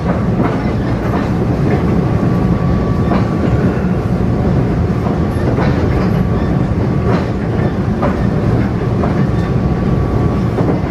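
Taiwan Railway EMU500 electric multiple unit running at speed, heard from inside the passenger car: a steady low rumble with irregular wheel clicks over the rail joints and a thin steady whine.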